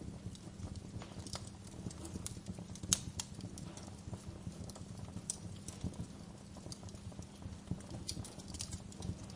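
Wood fire crackling: irregular sharp pops and snaps over a steady low rumble, with one louder pop about three seconds in.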